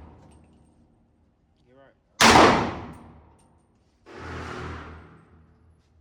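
A single loud gunshot from an AK-pattern Draco pistol about two seconds in, with a long echoing decay. The echo of the previous shot fades at the start, and a softer, duller bang follows about four seconds in.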